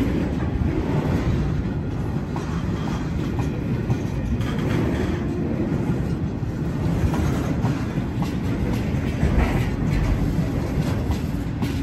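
Freight train of grain hopper wagons rolling past: a steady low rumble of steel wheels on rail, with scattered clicks as the wheels cross rail joints.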